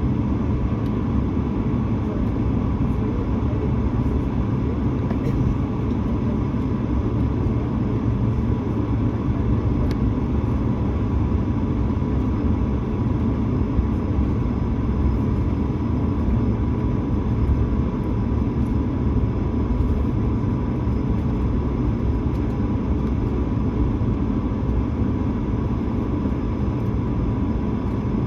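Steady cabin noise inside an Airbus A220-300 on the ground, its Pratt & Whitney geared turbofan engines running at low power: an even low rumble with a steady whine over it.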